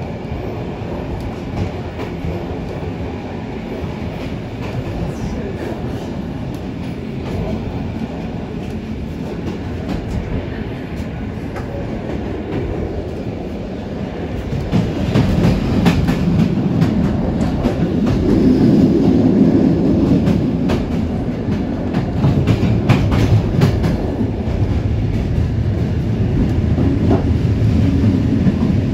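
Passenger train running on the rails: a steady low rumble with wheels clacking over rail joints. It grows louder about halfway through, with a run of clacks.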